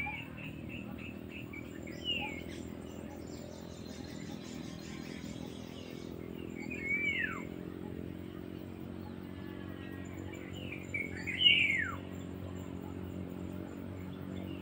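Wild birds calling: three loud calls that slide steeply down in pitch, about two, seven and eleven seconds in, the last the loudest, with softer rapid chirps between them, over a steady low hum.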